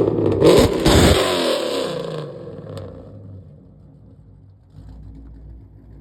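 A car engine revving hard as the car accelerates away. The sound drops in pitch and fades out over the first three seconds, leaving a faint low rumble.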